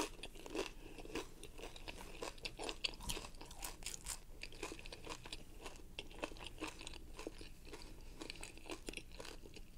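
A person chewing crunchy fried corn tortilla: a steady run of small crunches and crackles.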